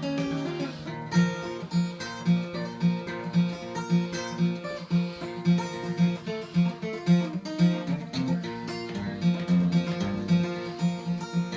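Instrumental break on a solo acoustic guitar in open CGDGBE tuning, capoed at the third fret: a low bass note pulsing about twice a second under a picked melody on the higher strings.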